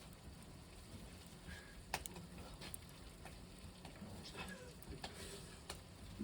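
Wood fire burning in a kamado cooking hearth, crackling with a few sharp, scattered pops over a low steady rumble. The loudest pop comes about two seconds in.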